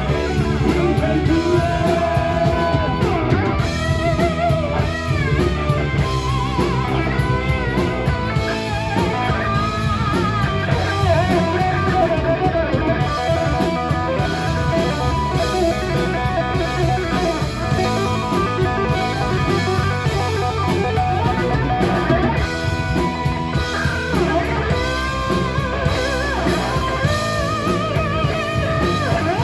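Live rock band playing: guitar over a drum kit, loud and steady.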